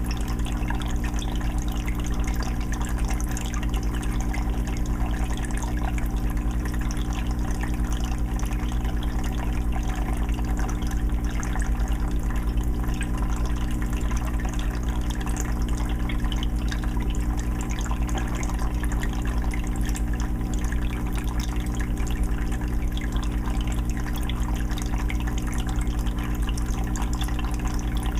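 Aquarium filter running: water trickling and splashing steadily into the 20-gallon tank, with a constant low motor hum underneath.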